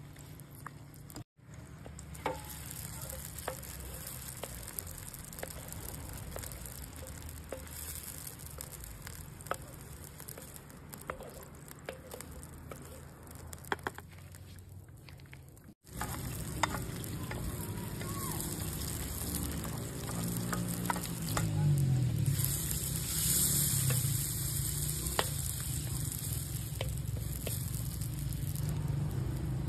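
Food sizzling and frying in a pan over a campfire, with scattered crackles and pops and stirring in the pan. The sound breaks off abruptly twice, about a second in and about halfway, and the sizzle is louder and brighter in the second half.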